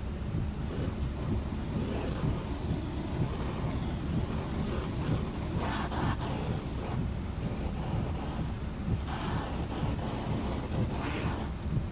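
Steady low rumble of wind on the microphone, with three spells of hissing water spray on the car's windshield, each lasting one to two and a half seconds.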